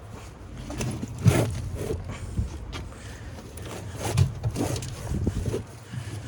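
Scattered knocks and clunks of heavy forklift battery cells being handled, with two louder knocks about a second in and about four seconds in.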